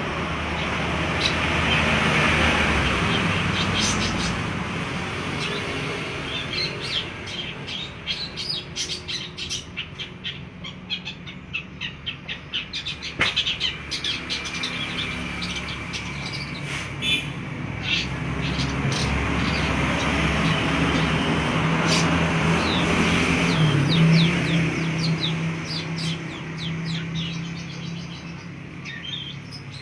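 Long-tailed shrike (pentet) in full song: fast runs of short, sharp chattering notes, heard over a steady low hum and a background hiss.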